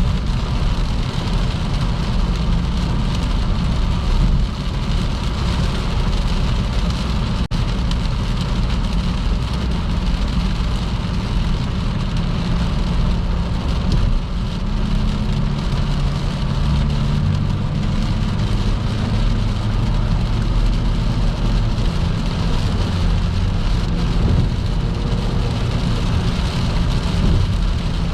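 Car driving at speed on a motorway in heavy rain: a steady wash of rain and wet tyre noise over a low engine and road hum.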